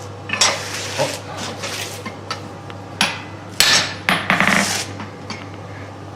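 Hammer strikes on hot stainless steel as a blacksmith shapes the face of a forged crucifix figure: about half a dozen sharp metallic blows at an uneven pace, over a steady low hum.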